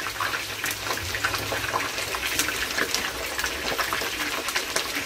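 Chicken drumsticks shallow-frying in hot oil in a pan, a steady sizzle full of quick crackles and pops.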